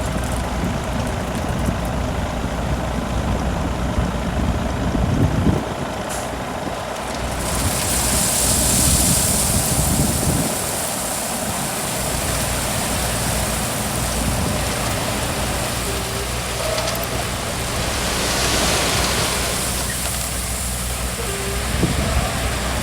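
Heavy diesel earthmoving machinery working gravel: a steady engine rumble with scraping noise, and a loud hiss for a couple of seconds about eight seconds in.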